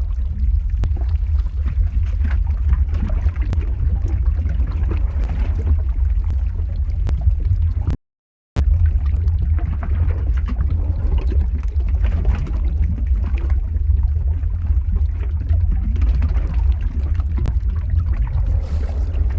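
Lava ambience sound effect: a steady deep rumble with scattered crackles over it. It cuts out to silence for about half a second a little past the middle.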